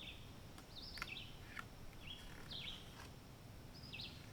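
Faint woodland birdsong: short, high chirps from small birds about once a second over a soft background hiss.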